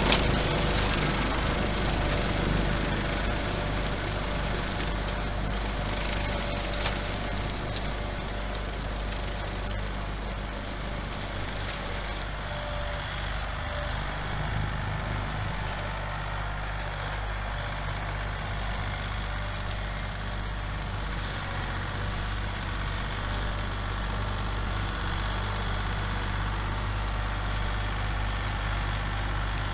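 Small tractor engine running steadily while driving a brush hog (rotary cutter) through tall weeds and grass. About twelve seconds in, the hissing, clattering upper layer of the cutting drops away sharply, leaving a steadier engine hum.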